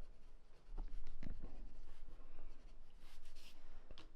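Soft scratching strokes and a few light taps, like a pencil or pen on paper, over a low steady hum.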